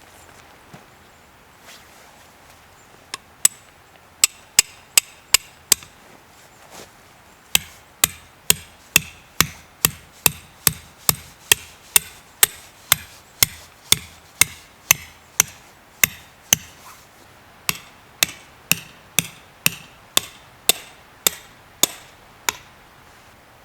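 Repeated sharp hammer strikes, about two a second, in three runs with short pauses between them.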